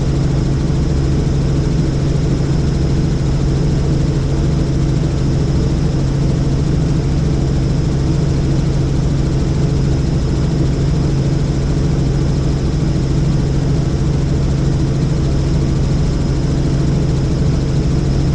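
Helicopter in steady flight: the engine and rotor make an even, unbroken drone with a strong low hum.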